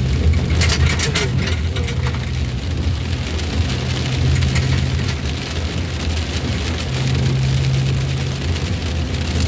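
Heavy rain falling on a moving ambulance's roof and windscreen, over the steady low hum of its engine, with a few sharp spattering streaks about a second in.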